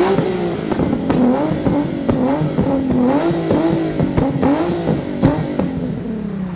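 Car engine revved hard again and again, its pitch climbing and dropping about once a second, with sharp pops cracking between the revs. The engine winds down near the end.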